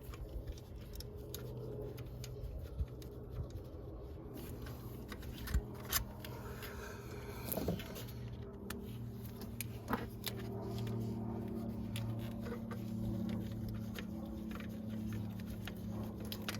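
Scattered metal clicks and clinks of hand tools and fasteners during reassembly of an alternator mount and bracket, over a steady low hum that grows a little about four seconds in.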